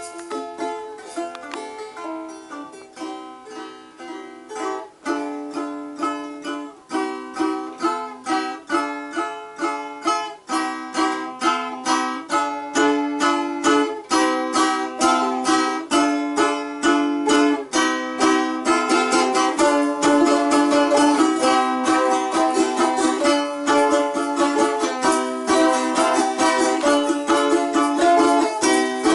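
Balalaika music: rapid plucked and strummed chords that grow louder over the first half, with denser, faster strumming in the last third.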